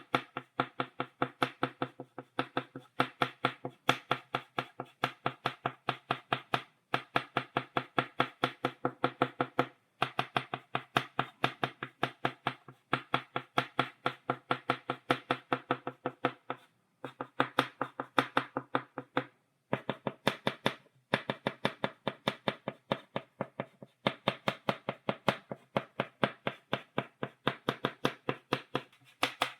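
Stick of chalk tapping rapidly on a blackboard, stippling dots: a quick run of sharp taps, several a second, broken by brief pauses every few seconds.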